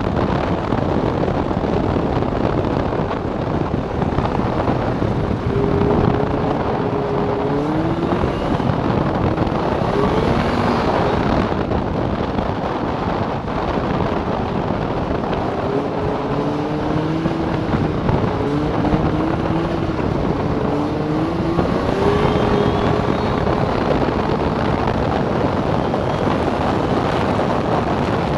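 Snowmobile engine running at speed, its pitch rising and falling several times as the throttle changes, under heavy wind noise on the microphone.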